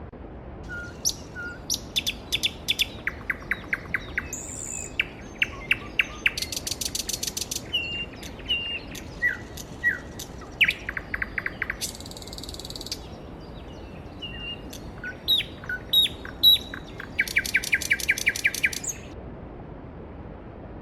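Songbirds chirping and singing, with several fast trills of rapidly repeated notes, over the steady rush of a mountain stream.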